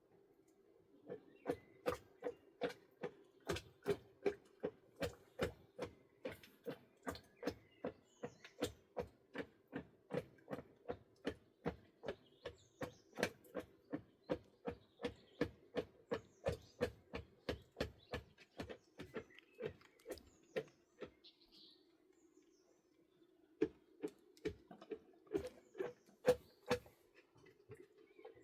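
A steady series of sharp knocks, about two or three a second, that stops for a couple of seconds and resumes with a few more knocks near the end, over a low steady hum.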